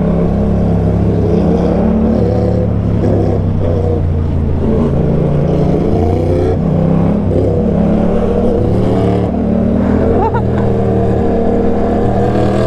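Motorcycle engine running at low road speed, its revs rising and falling repeatedly. A short rising squeal comes about ten seconds in.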